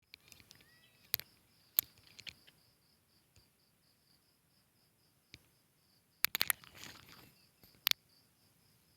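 An insect chirping steadily in short high pulses, about three a second, with several sharp clicks and a brief rustle a little past the middle.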